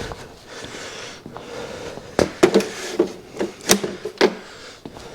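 Shuffling noise, then a quick run of about seven sharp knocks and clanks over two seconds, each with a short ring, as of hard objects being handled and set down.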